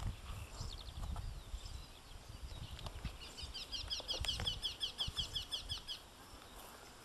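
A songbird singing a fast run of repeated high chirps, about seven a second, lasting about three seconds in the second half, with fainter bird notes before it. Low rumbles on the microphone run underneath.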